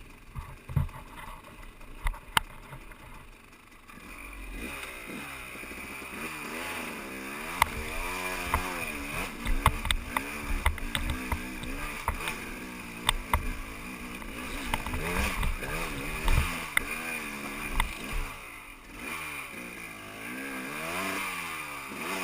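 Dirt bike engine running on a trail, its pitch rising and falling over and over as the throttle opens and closes, with scattered sharp clicks and knocks. The engine comes in about four seconds in, after a quieter stretch with a few knocks.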